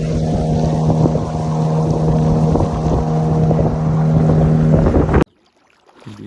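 An engine running steadily with a constant hum, with frequent knocks and rattles over it. The sound cuts off abruptly about five seconds in.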